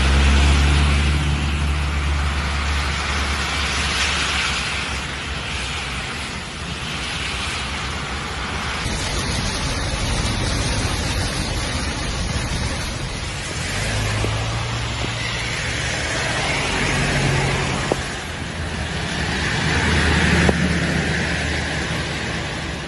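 Cars driving through heavy rain on a wet road: tyres hiss through the water over a low engine rumble, swelling and fading as vehicles pass.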